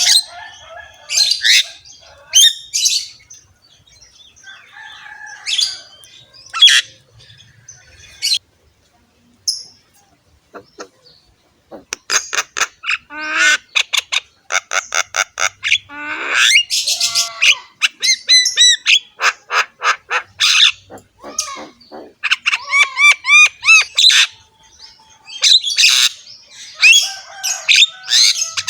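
Javan myna (jalak kebo) singing in a harsh, chattering song. Scattered calls come first, then a short pause about eight seconds in. From about twelve seconds it runs fast and dense with rasping notes, clicks and gliding whistles.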